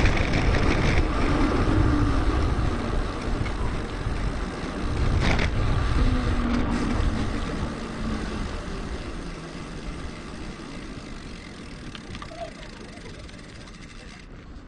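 Wind and road noise from a bicycle ride on a bike-mounted action camera, played back sped up, with one sharp click about five seconds in. The noise fades steadily over the second half.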